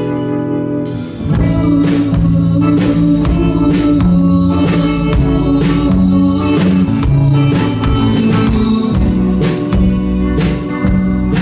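Live band playing the instrumental close of a song, with a drum kit beating steadily under sustained guitar chords.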